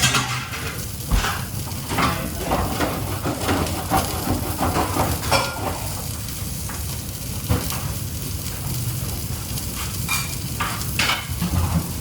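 Food sizzling as it fries in hot oil, with irregular clinks and knocks of utensils and pans.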